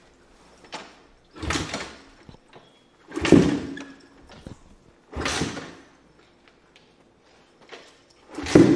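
A dirt bike engine is turned over four times in short, separate bursts and fails to start each time. It won't fire after the bike was crashed, and the riders fear it is broken.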